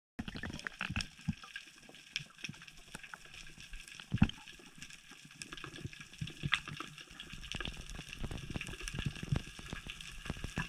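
Underwater sea ambience: water movement with many small sharp crackling clicks and a louder knock about four seconds in.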